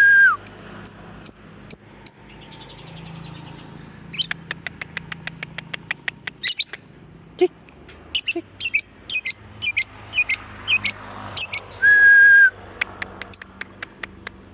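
Lovebird chattering its ngekek song in semi-broken runs of rapid, sharp, high chirps. Two long steady whistled notes cut in, one at the start and one about twelve seconds in.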